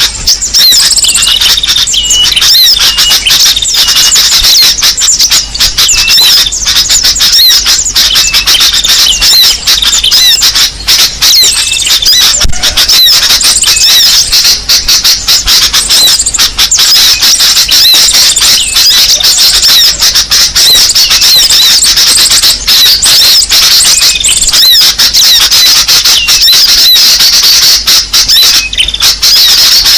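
Recorded small-bird lure call (suara pikat): a dense, busy chatter of rapid high-pitched chirps and squeaky notes, many birds' calls packed together, played loud to draw small birds in.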